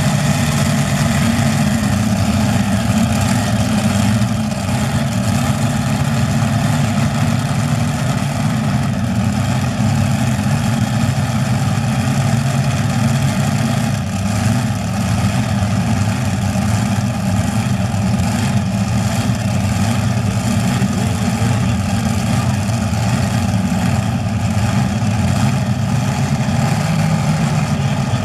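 Modified pulling tractor's four Hemi V8 engines running loud and steady, with no big rise or fall in pitch.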